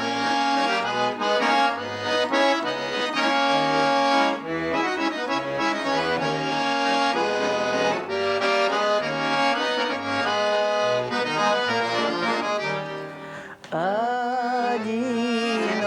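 Accordion playing the instrumental introduction to a song: a melody in held chords over a regular, alternating bass.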